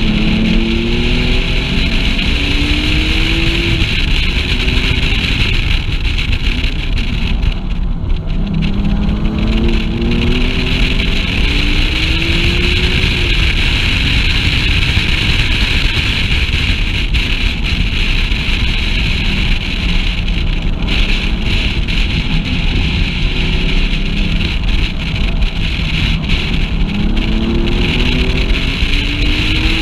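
Porsche sports car's engine accelerating hard through the gears, its pitch rising and dropping back at each upshift, in three pulls: at the start, about ten seconds in, and near the end. Loud wind buffeting and road noise on the unshielded onboard microphone throughout.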